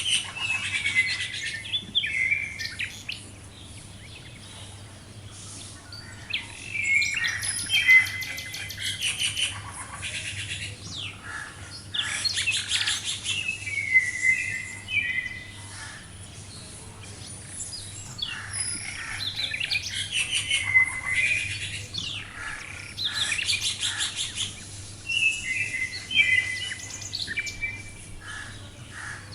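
Songbirds singing: phrases of chirps and short trills that recur in bursts every few seconds, with quieter gaps between them.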